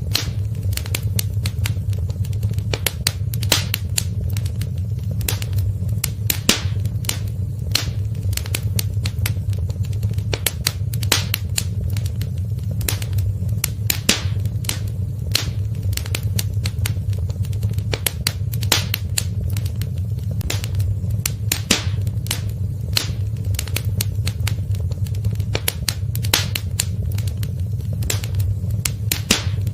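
Wood fire in a fireplace crackling: many sharp, irregular pops and snaps over a steady low rumble of the burning fire.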